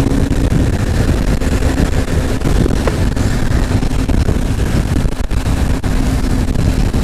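Steady wind rush over the microphone with road noise from a moving electric motorbike.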